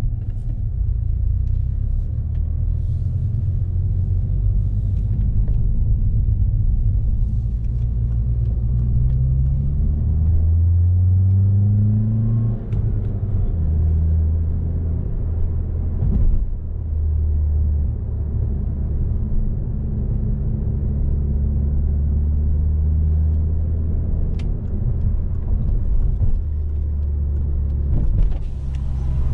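Alfa Romeo 159 1750 TBi's tuned turbocharged four-cylinder, heard from inside the cabin while driving, with steady low engine drone and road noise. About eight seconds in the engine note rises under acceleration, then falls abruptly at a gear change about four seconds later, settling back to a steady cruise.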